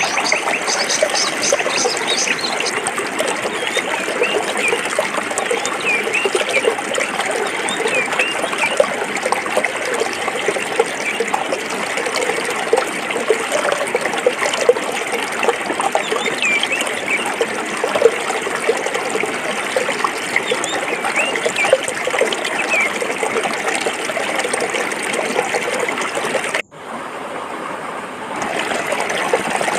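Forest stream trickling and babbling over rocks, steady and full of small gurgles. Near the end it cuts out for an instant, stays quieter for about a second and a half, then comes back at full level.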